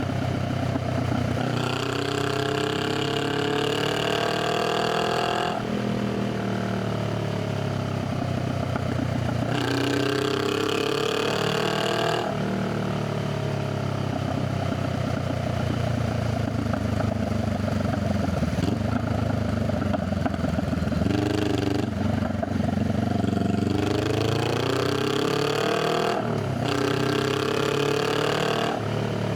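Honda Rebel 500's parallel-twin engine and exhaust under way: the revs climb and drop sharply at a gear change, climb again, then run lower and steadier for several seconds before rising through the revs once more near the end.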